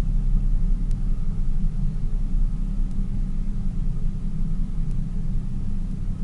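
Tour boat's engine running steadily, a constant low rumble with a faint hum.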